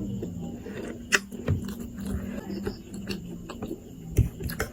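Close-up eating sounds: chewing, with a few sharp clicks or crunches, the loudest just over a second in and again about four seconds in, over a faint steady hum.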